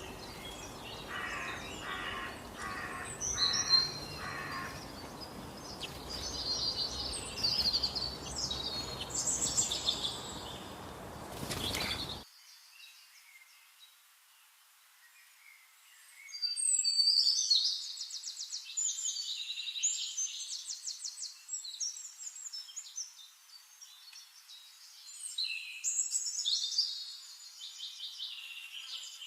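Several songbirds singing in high, quick chirps and trills over a steady outdoor hiss. Partway through, the hiss drops out abruptly and the songs go on in separate bursts.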